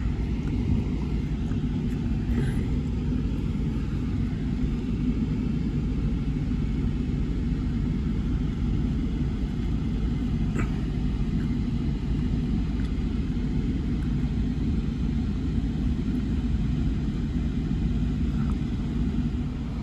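Steady low rumble of a running vehicle engine, with no change in pitch or level.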